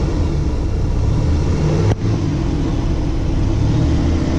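Vintage RV's engine running, heard from inside the cab as a steady low rumble, with one brief sharp break about two seconds in.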